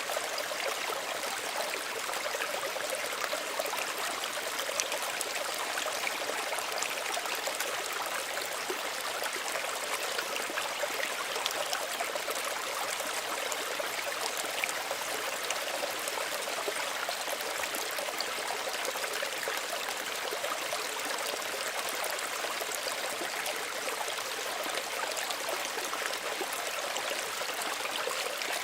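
Small stream of running water, a steady trickling and babbling over stones that never lets up.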